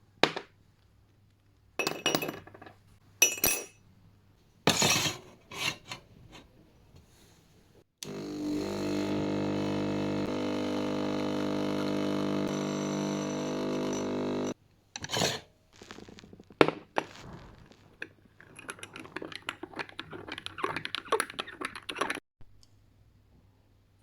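Coffee-making sounds: several sharp clinks and knocks of glass or crockery, then a small appliance motor running steadily for about six seconds, two more knocks, and a few seconds of crackly rustling.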